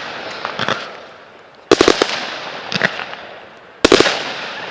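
Consumer fireworks going off: two loud bursts, each a quick cluster of sharp bangs that fades out, about two seconds apart, with fainter pops between them.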